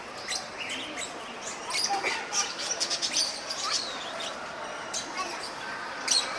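Small birds chirping: many short, high calls coming one after another and overlapping.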